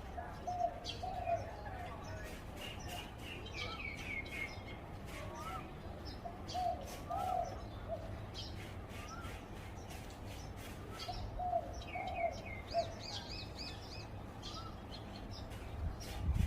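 Zebra dove cooing: three short phrases of soft, wavering notes, each about a second long and about five seconds apart. Other small birds chirp at a higher pitch in between.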